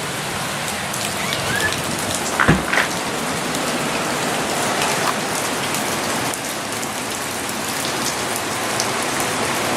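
Heavy hurricane rain falling in a steady hiss. A short thump sounds about two and a half seconds in.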